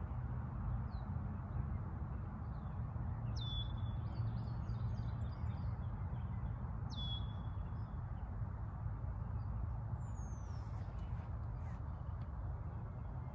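Birds calling outdoors: two clear calls about three and a half seconds apart, each a quick downward slide that levels off into a short held whistle, with softer chirps after the first and a thin falling whistle near the end. Underneath runs a steady low rumble.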